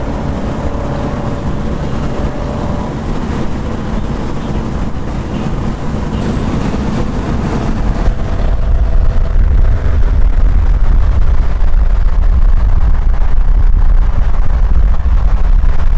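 A car driving at speed: deep engine rumble with road and wind noise, getting louder about eight seconds in.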